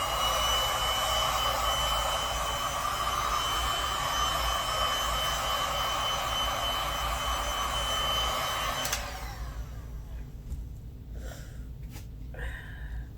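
Heat gun blowing steadily with a high whine, warming epoxy resin so it spreads more easily. It is switched off about nine seconds in and winds down.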